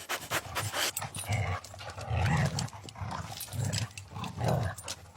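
A dog barking in low, gruff bursts, about one a second.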